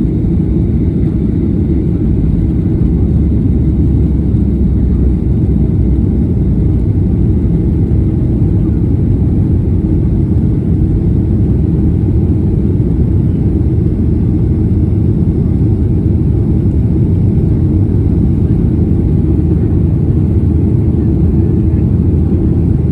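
Airliner cabin noise heard from a passenger seat: a steady, loud, low rumble of the jet engines and rushing air, with no change in level.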